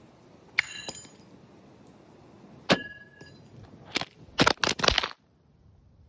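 Sharp metallic clinks and cracks. Two separate hits ring on briefly with a clear tone, about half a second and nearly three seconds in, then a quick run of four or five sharp cracks comes between four and five seconds.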